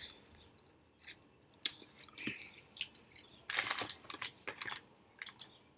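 Close-miked chewing and wet mouth clicks and smacks of a person eating with their fingers, with a denser run of crackly chewing about three and a half seconds in.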